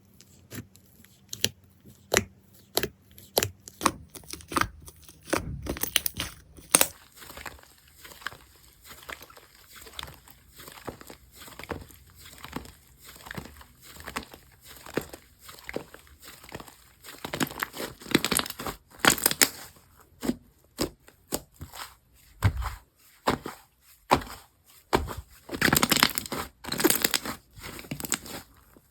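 Slime being squished, stretched and poked by hand: a long run of irregular sticky clicks and pops, with louder, busier stretches in the second half.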